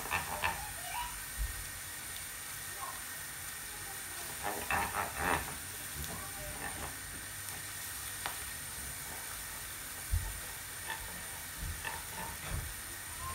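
Chopped onion and garlic paste sizzling gently in oil and butter in a pot, with a wooden spoon stirring and scraping through them. A short run of scrapes comes about five seconds in, with a few soft knocks of the spoon near the end.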